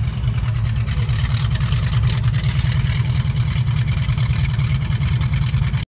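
1966 Ford Mustang's 289 small-block V8 running steadily, a deep, even exhaust pulse.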